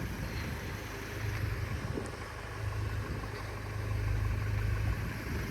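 Uneven low rumble of wind buffeting a phone's microphone, rising and falling.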